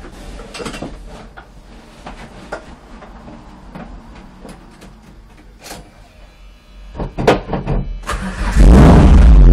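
Clicks of the switch-panel toggles in a stripped Citroën Saxo race car, then the starter cranks in short, uneven bursts and the engine fires about eight and a half seconds in, running very loud and steady, heard from inside the cabin.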